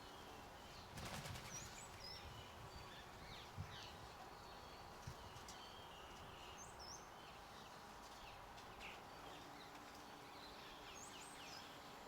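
Faint garden birds chirping and calling now and then, with a brief flutter of wings about a second in and a couple of soft knocks.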